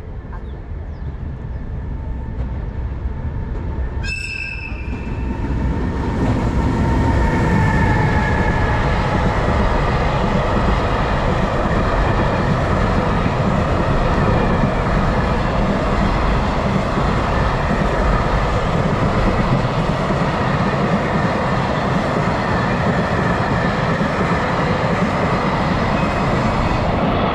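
JR Freight EH500 electric locomotive giving a short horn blast about four seconds in, then a long freight train of container wagons passing at speed: a steady loud rumble and clatter of wheels on rail.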